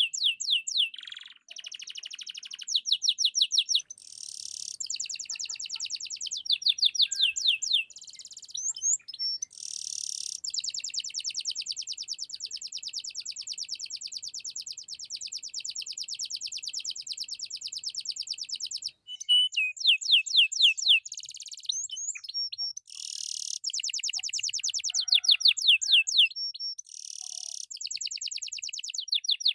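Domestic canary singing continuously: a high song of fast repeated trills and rolls, with one long unbroken rapid trill lasting about nine seconds in the middle.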